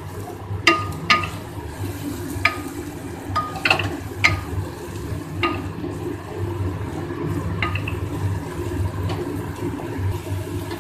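Spatula stirring and scraping onion, ginger-garlic paste and spice powder in a kadhai of hot mustard oil: scattered sharp scrapes and taps, about one a second, over a steady low sizzle of frying.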